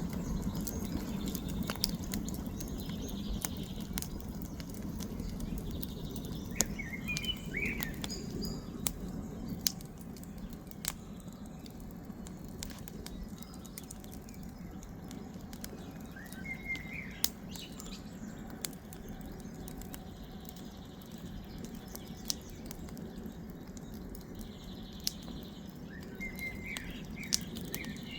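Campfire burning, crackling with irregular sharp pops over a low steady rumble. Short bird chirps come three times: about a quarter of the way in, near the middle and near the end.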